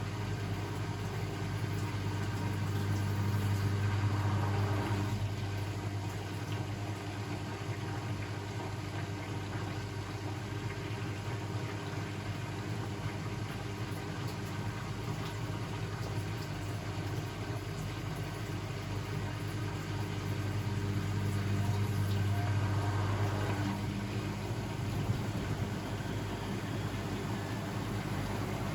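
Blomberg WAF 7442 SL washing machine running with a steady motor hum. The hum swells and eases twice as the drum's motion changes.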